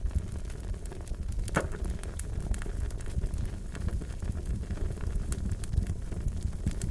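Wood fire crackling: a steady low rumble of burning with frequent small sharp pops and snaps, a louder pop about one and a half seconds in.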